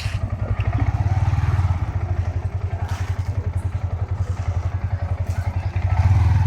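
Yamaha R15 V4's single-cylinder engine idling with an even, rapid beat, picking up slightly near the end, its timing chain tensioner freshly replaced.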